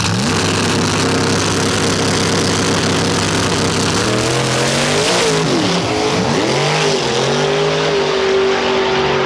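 Drag-racing car engine under hard acceleration, its pitch climbing and then dropping sharply twice partway through, as at gear changes.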